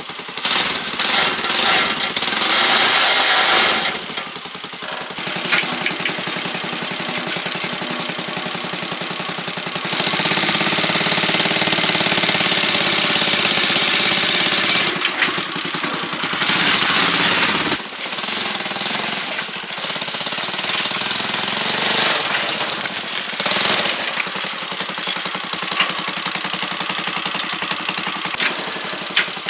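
A loud machine running with a fast, dense rattle, its sound shifting every few seconds.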